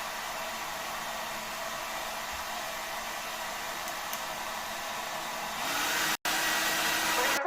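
Xiaomi H101 compact hair dryer running: a steady airy rush of fan and airflow that gets louder about five and a half seconds in and cuts out for an instant shortly after.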